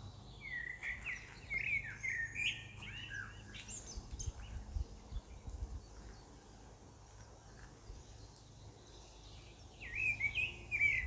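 Small birds chirping: a quick string of short notes that glide up and down for the first few seconds, a lull, then more chirps near the end, over a faint low hum.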